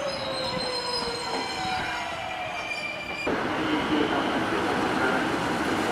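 Electric local train slowing into a station platform: a whine of several tones falls steadily in pitch, with high wheel squeal over it. About three seconds in, the sound cuts abruptly to a louder, steady train rumble.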